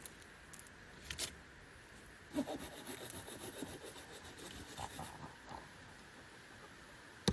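Intermittent rubbing and scraping on wood in short, irregular strokes, with a couple of sharp clicks about a second in and a run of strokes a little after two seconds, as of hand-tool work on wood.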